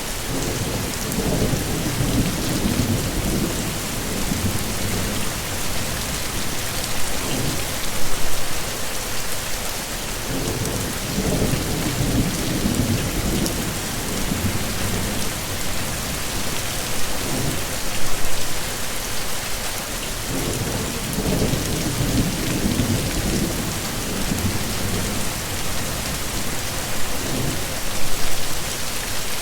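Heavy rain falling steadily, with low thunder rumbles swelling up and fading every ten seconds or so.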